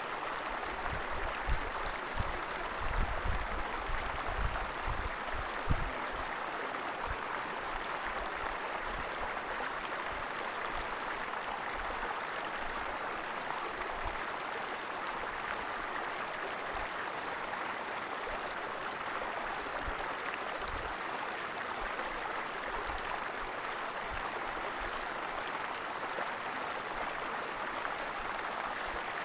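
Waterfall rushing in a steady, even wash of water noise, with a cluster of low thumps in roughly the first six seconds.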